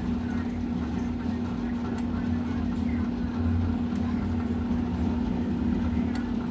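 Electrolux LM08 8 kg top-loading washing machine spinning: a steady motor hum with a low drum rumble that swells slightly in the middle. The machine has broken suspension springs, which make it run unbalanced.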